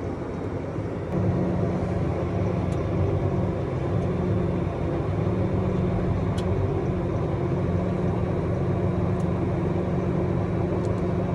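Truck engine running steadily, heard from the cab, a low hum that grows louder about a second in and then holds.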